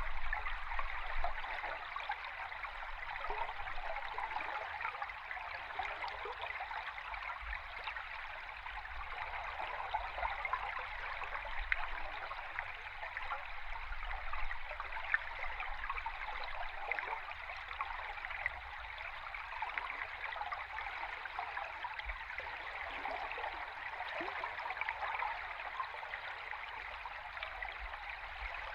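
River water flowing, heard underwater: a steady rushing hiss full of tiny crackles and bubbling, over a low rumble.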